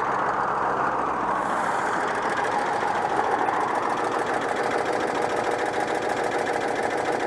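Citroën 2CV's air-cooled flat-twin engine idling steadily after an engine overhaul.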